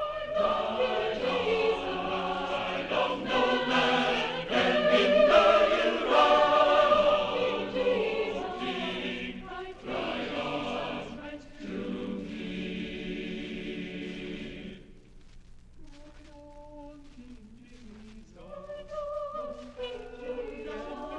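Choir singing a sacred choral piece with no accompaniment heard, several voice parts together; the singing thins and drops in level about fifteen seconds in, then swells again a few seconds later.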